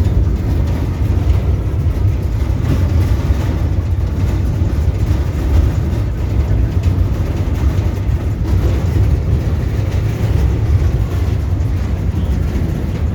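Steady low rumble of a moving truck, its engine and road noise heard from on board.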